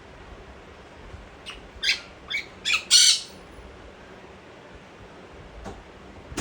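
A parrot gives a quick run of about five harsh squawks, the last one the longest and loudest.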